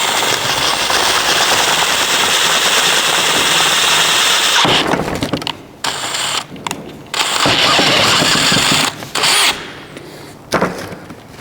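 Electric drill running, enlarging a hole to about a quarter inch for the door lock actuator's mounting clips: one long run of about four and a half seconds, then a few shorter bursts with pauses between them.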